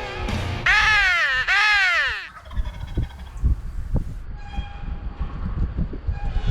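Two loud crow caws in quick succession, each rising then falling in pitch, followed by quieter rustling and small knocks.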